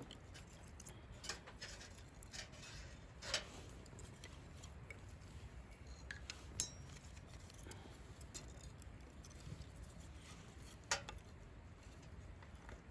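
Scattered light clinks and knocks of camp cookware and utensils being handled, with a few sharper clicks about three, six and a half, and eleven seconds in, over a faint low rumble.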